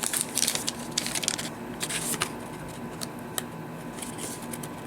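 Paper and card rustling and scraping in short bursts, with a few light clicks, as a craft tag is slid against a vellum envelope pocket. The rustling is busiest in the first two seconds and thins out after.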